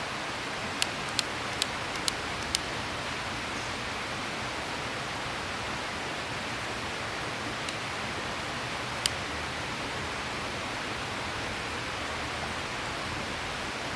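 Steady rushing of a mountain river's flowing water. A few sharp, short clicks come in quick succession about a second in, and one more about nine seconds in.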